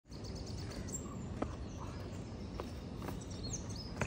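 Quiet outdoor ambience: a steady low background hum with birds chirping now and then, short and high, one call falling in pitch near the end, and a few faint ticks.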